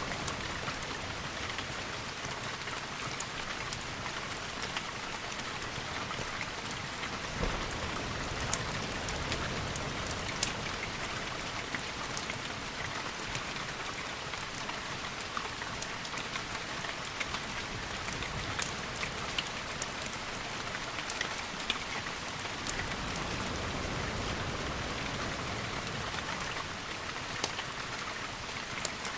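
Steady rain, dense and even, with a scattering of sharp ticks from individual drops or a few crackles, the loudest about eight and ten seconds in.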